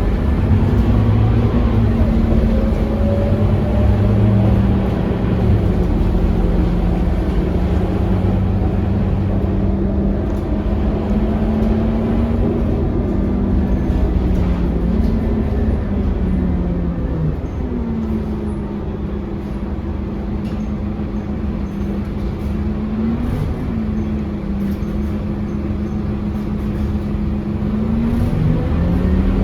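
Scania K230UB city bus's five-cylinder diesel engine running under way. Its pitch rises and falls as the bus pulls and eases off, then it sinks to a lower, steadier note for a while in the second half before picking up again near the end.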